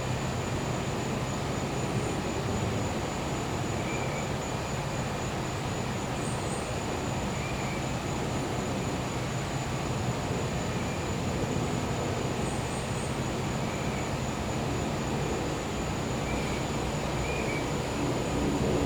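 Gas-powered generator humming steadily. Over it an insect trills continuously in a high pulsing tone, and short higher chirps come every couple of seconds.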